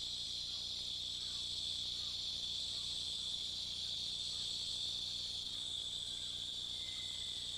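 Steady, high-pitched insect chorus of rainforest ambience, one unbroken shrill trill that holds the same pitch and level throughout.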